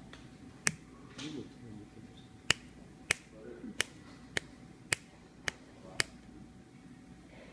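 Finger snaps: about eight sharp, separate snaps at uneven intervals.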